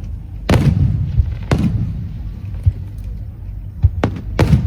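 Fireworks shells bursting: a deep bang about half a second in, another about a second later, then a quick run of several bangs near the end, over a steady low rumble.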